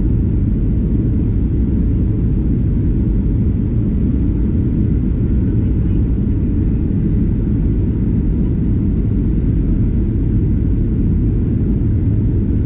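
Steady low rumble of an airliner's engines and airflow heard from inside the passenger cabin, even and unchanging throughout.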